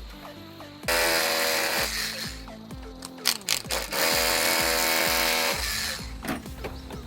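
A power tool running in two bursts of about a second and a half each, with a few sharp knocks between them, over background music.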